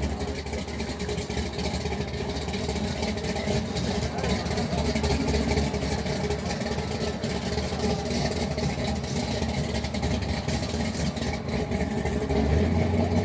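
Car engine running steadily with a low rumble that swells slightly near the end.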